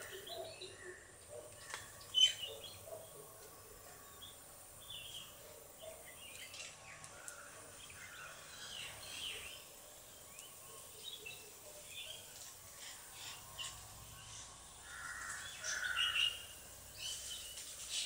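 Scattered short bird chirps and calls over a faint steady outdoor background, with a brief sharp tick about two seconds in and a louder run of calls near the end.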